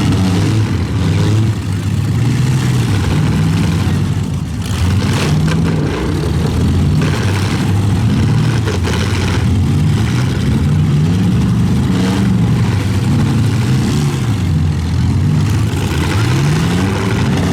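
Several demolition derby pickup trucks' engines revving at once, their pitches rising and falling as they accelerate and back off, with a few sharp knocks from about four to nine seconds in.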